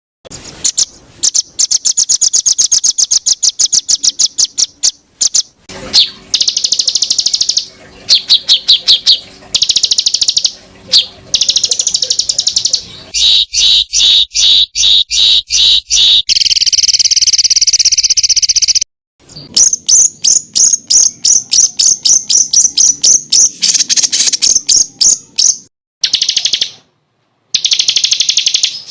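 Recorded songbird song for training cage birds: loud, rapid trills and runs of repeated high-pitched notes, the kind of fast 'shot' phrases used to teach competition birds. The song is spliced together, with sudden cut-offs and restarts twice.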